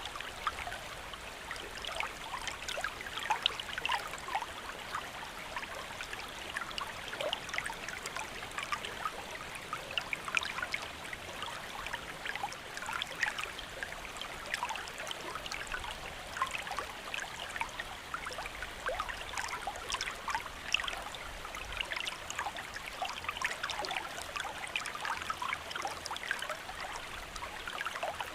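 Steady rain, with many small drops pattering densely.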